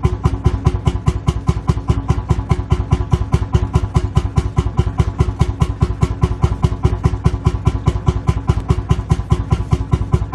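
Lanz Bulldog tractor's single-cylinder two-stroke hot-bulb engine idling: a steady, even thump of about seven beats a second.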